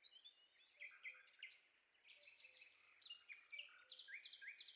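Faint birdsong: many short, high chirps and twitters, scattered and growing busier in the second half.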